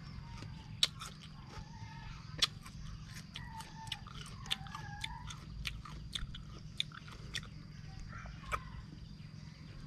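Close-up biting and chewing of crunchy young green ambarella fruit, with a run of sharp crunches, the loudest about a second in and again about two and a half seconds in.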